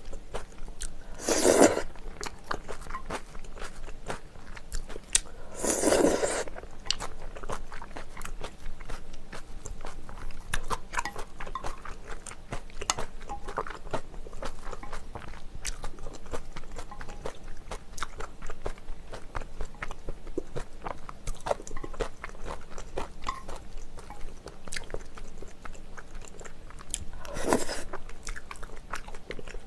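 Close-miked chewing of thick Chinese glass noodles and braised chicken, a steady run of small mouth clicks, broken by three louder slurps of about half a second: near the start, about six seconds in, and near the end.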